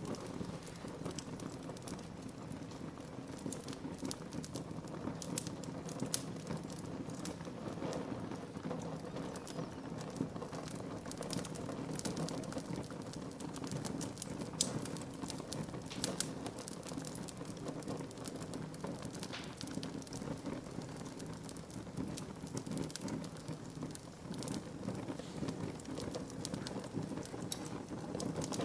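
Wood fire burning in a fireplace: a steady low rumble of the flames with frequent irregular crackles and pops of the burning wood, a few of them sharper than the rest.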